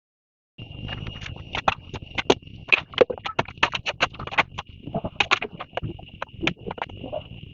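A quick, irregular run of sharp knocks and clacks, thickest in the first few seconds and thinning out later, over a steady high-pitched hum. It starts abruptly after a short silence.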